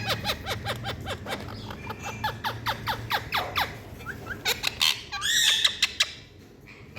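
Indian ringneck parakeet calling: a rapid run of short falling chirps, several a second, then a louder warbling squawk about five seconds in.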